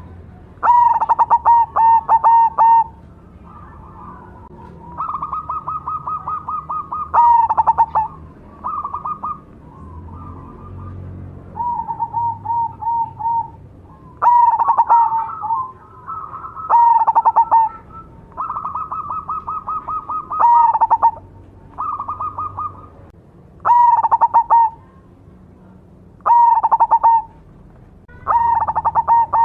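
Black cemani zebra dove (perkutut) singing: phrase after phrase of fast, rippling coos, each one to two seconds long, with short pauses between.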